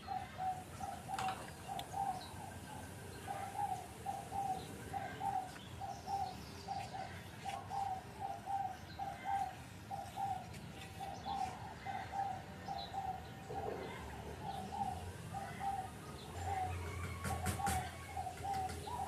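A bird calling over and over, a steady run of short notes at the same pitch, about two a second, with a few sharp clicks near the end.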